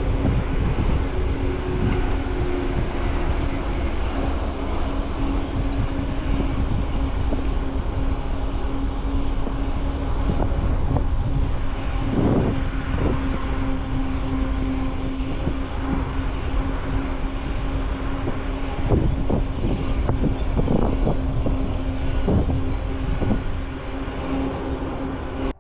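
Riding noise picked up by a bicycle-mounted camera: wind buffeting the microphone and tyres rolling, with a steady hum throughout and scattered knocks and rattles over bumps. The sound cuts off abruptly at the end.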